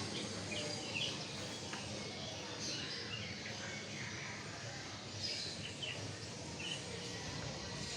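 Small caged songbirds chirping: short, high chirps scattered irregularly over a steady background hum and hiss.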